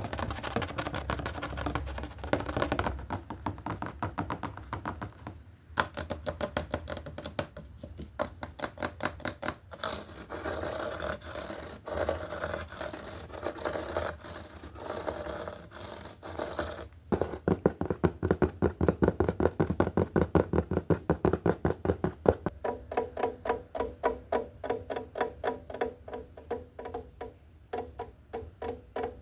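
Rapid tapping and scratching on a hard surface, several taps a second and ringing slightly, growing louder after about halfway.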